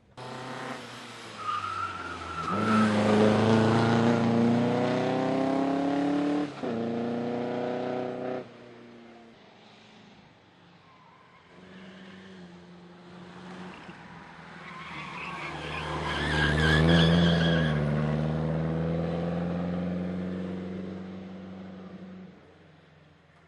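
Vintage racing car engine accelerating hard, its pitch rising and breaking once for a gear change, with a short tyre squeal early on; the sound stops suddenly about eight seconds in. Then another car's engine grows louder as it passes and fades away.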